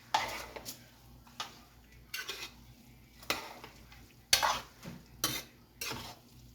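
A spoon scraping and knocking against a cooking pot while stirring rice and breaking up its clumps, in uneven strokes about once a second.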